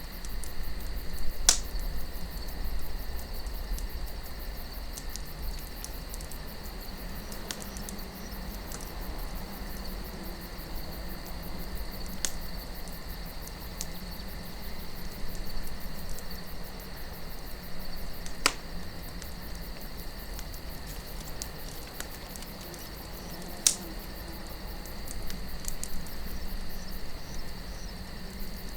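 Wood campfire burning with soft crackling and a handful of sharp pops, about five spread across the stretch, over a low, steady wind rumble.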